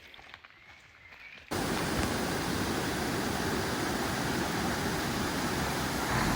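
Steady rushing roar of a waterfall, cutting in abruptly about a second and a half in after a few faint ticks.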